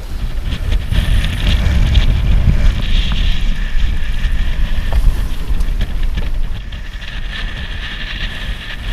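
Strong wind, around 30 knots, buffeting the microphone with a heavy rumble, over a steady high whistle of wind in a sailboat's rigging. The gusts ease somewhat in the second half.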